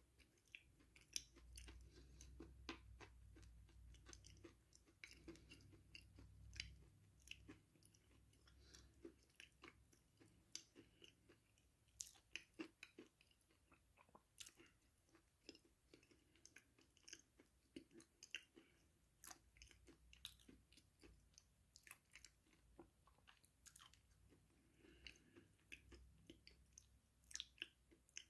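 Close-miked chewing of crunchy food: many small, quiet crisp crunches and mouth clicks, with a low rumble during the first several seconds.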